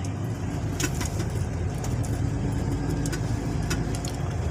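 MAN diesel truck engine running steadily, a low rumble heard from inside the cab, with a few short clicks scattered through it.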